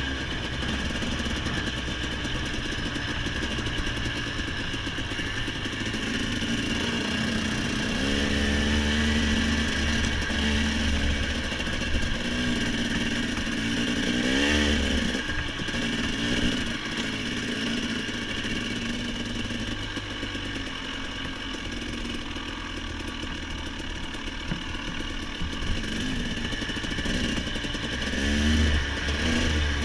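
Small off-road vehicle engine running under way on a dirt trail, revving up and easing off several times, most clearly about 8 seconds in, around the middle and near the end.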